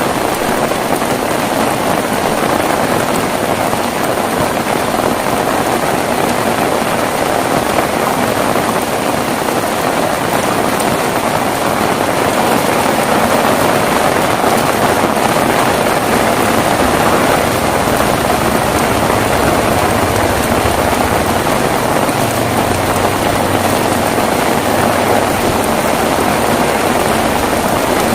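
Heavy rain falling steadily, an even hiss with no breaks. A low rumble joins in during the second half.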